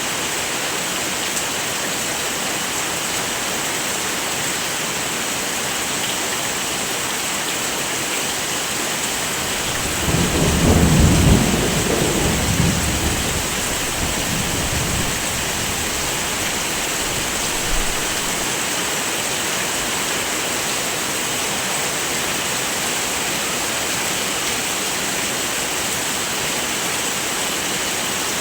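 Steady heavy rain, with a low roll of thunder about ten seconds in that swells and fades away over some five seconds.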